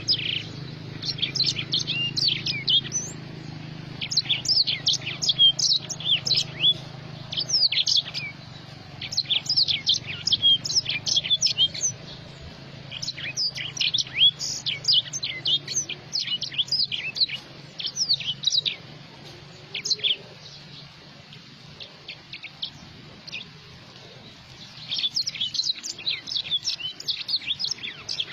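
A small songbird of the kind sold as a 'black throat' singing long runs of quick, high twittering notes in several phrases. It pauses for a few seconds near the end, then starts again.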